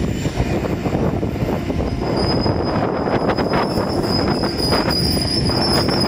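EN57AL electric multiple unit passing close by, its wheels and bogies rumbling loudly on the rails. A thin, steady high-pitched whine comes in about two seconds in, with a few short clacks over the wheels.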